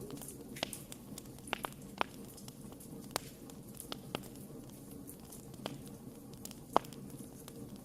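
Campfire crackling: about nine sharp pops at irregular intervals over a steady low hiss of the burning wood, the loudest pop near the end.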